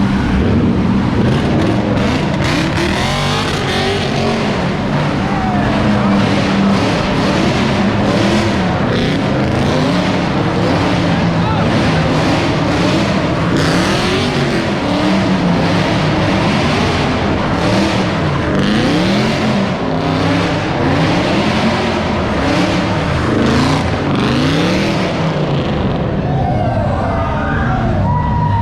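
A car engine revved hard again and again, its pitch rising and falling every second or two, over a steady wash of noise.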